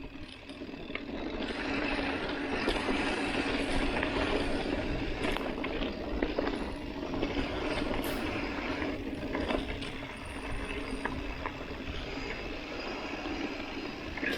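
Mountain bike rolling fast downhill on a dusty dirt road: steady tyre and riding noise with scattered rattling clicks from the bike over bumps.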